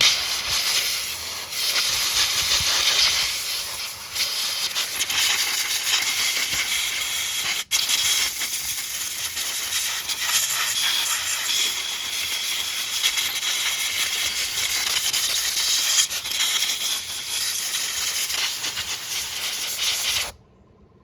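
Aerosol degreaser spraying in one long hiss, with a brief break about eight seconds in, then cutting off suddenly near the end.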